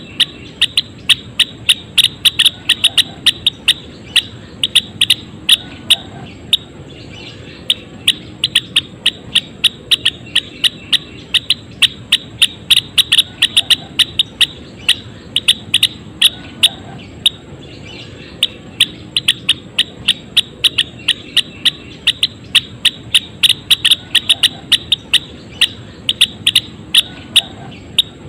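Gelatik wingko, a small Javan songbird, calling in a fast, unbroken run of short, sharp chipping notes, about three to four a second, with brief pauses every few seconds.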